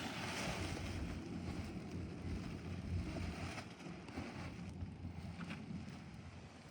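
Steady wind rushing and buffeting over the microphone in flight, easing off near the end.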